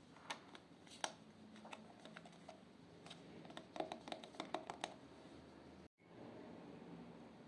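Slime being worked by hand, giving small sticky clicks and pops, with a quick run of them in the middle. The sound drops out for an instant about six seconds in.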